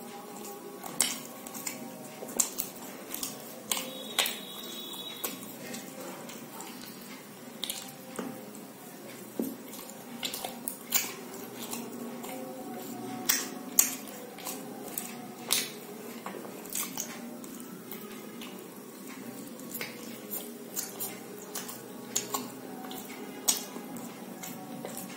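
Close-miked mukbang eating: chewing aloo paratha eaten by hand, with many irregular wet mouth smacks and clicks.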